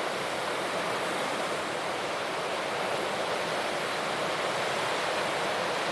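Ocean surf making a steady, even rushing hiss, with no single wave breaks standing out.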